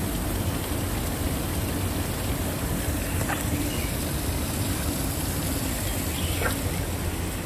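Waterfall pouring steadily: a dense, even rush of falling water.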